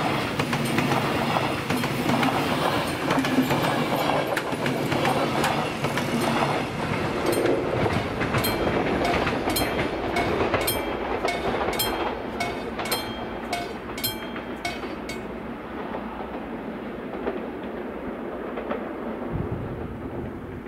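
Express passenger train passing close by: a steady rumble of wheels on rail, with clickety-clack from the wheelsets hitting a rail joint in quick pairs through the middle. The sound then fades as the train moves away.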